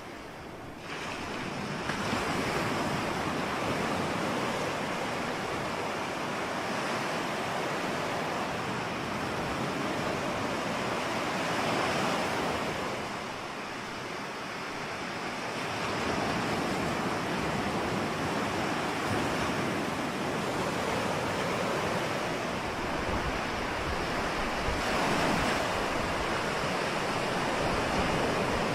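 Ocean surf washing in steadily, swelling and easing in waves, with a quieter lull about halfway through.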